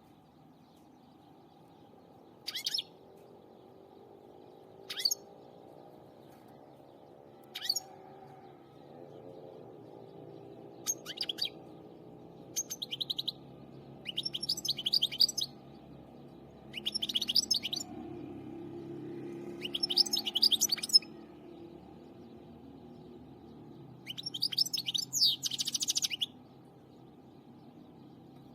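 A finch calling: single short chirps every two to three seconds, then rapid high twittering song phrases of one to two seconds that grow longer and louder toward the end. A faint steady low hum sits underneath.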